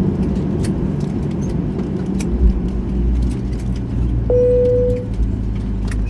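Inside a Boeing 737-800 cabin at the gate: a steady low rumble, with many small metallic clicks of seatbelt buckles being unfastened. About four seconds in comes a single cabin chime that rings and fades, the sign that the seatbelt sign has gone off.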